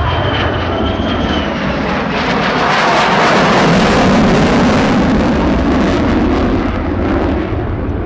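Lockheed Martin F-35 Lightning II's single Pratt & Whitney F135 turbofan, a loud jet rush as the fighter flies past. It swells to its loudest about four seconds in, with a falling pitch as it goes by, then eases off slightly.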